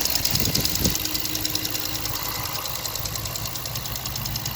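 Dodge Challenger R/T's 5.7 Hemi V8 idling with a fast, even ticking over its steady running. The owner takes the tick for loud fuel injectors, above all cylinder #1's, not the lifters or cam.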